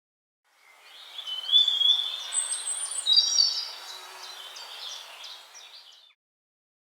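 Wild birds singing, with several overlapping chirps and trills over a steady outdoor hiss; the sound fades in and stops about six seconds in.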